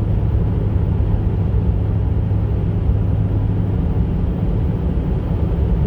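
Ford Power Stroke V8 diesel in a pickup running steadily with a low, even drone. The engine is logging random and cylinder 2 misfire codes.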